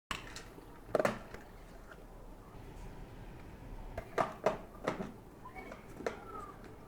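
Hands unpacking beads: light clicks and rustles of bead packaging, one about a second in and a quick cluster of several about four to five seconds in.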